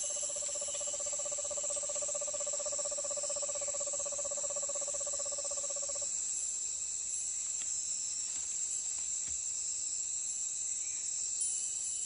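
Night-time rainforest insect chorus, a steady high shrill buzz like crickets. During roughly the first half there is also a lower, fast-pulsed trill, which cuts off abruptly about halfway through.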